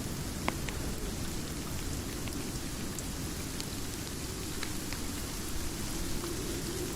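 Steady heavy rain with a low rumbling undertone, broken by a few scattered sharp clicks.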